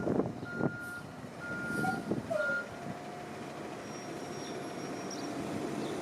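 Autocar garbage truck's backup alarm beeping in an even on-off pattern, stopping about two and a half seconds in, over the truck's running engine.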